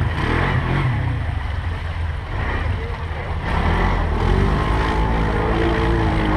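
ATV engine running under way, a steady low rumble with wind noise on the microphone.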